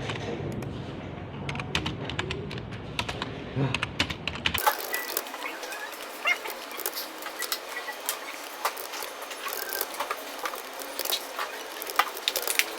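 Typing on a computer keyboard: a run of quick, irregular key clicks. A low hum under the clicks stops abruptly about a third of the way in.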